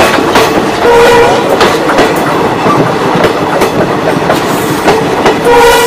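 Passenger train coach running at speed, its wheels clattering over the rail joints. A train horn sounds briefly about a second in and again near the end.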